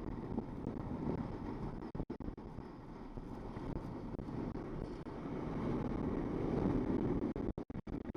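Wind buffeting the microphone over the steady run of a jet ski's engine on the water. The sound cuts out in several short gaps near the end.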